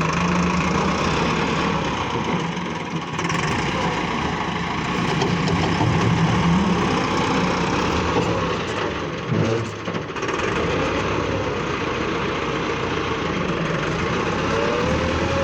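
Massey Ferguson tractor engine running steadily, with a brief drop and return in engine note about two thirds of the way through.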